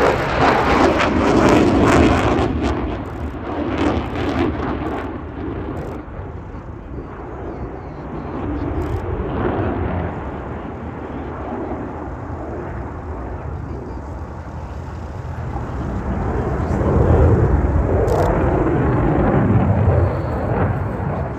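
Eurofighter Typhoon jet, with its two Eurojet EJ200 turbofan engines, flying a display: a loud rumble that is strongest at the start, fades through the middle, then swells again near the end as the jet comes back past.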